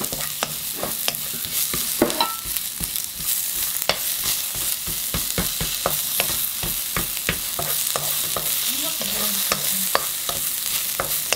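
Sliced onion and minced garlic sizzling in a hot non-stick wok, stirred with a wooden slotted spatula that clicks and scrapes against the pan many times.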